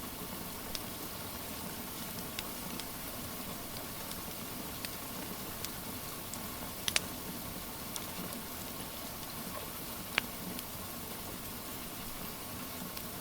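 Steady rain hiss with a wood fire crackling through it: scattered small pops, and two sharper ones about halfway and three-quarters of the way through.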